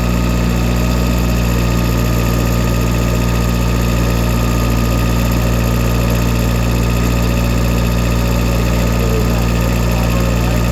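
Old tractor's engine running at a steady, even speed.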